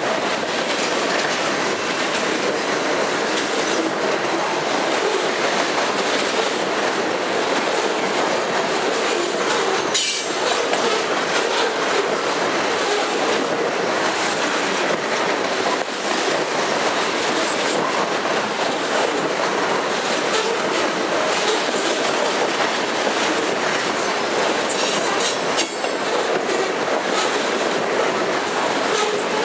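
Loaded covered hopper cars of a grain train rolling past, a steady rumble and clatter of steel wheels over the rail joints. Brief high-pitched wheel squeal about ten seconds in and again near the end.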